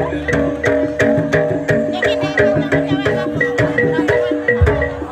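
Jaranan gamelan music: struck metallophones play a repeating melody over drum strokes that keep a steady beat of about three a second.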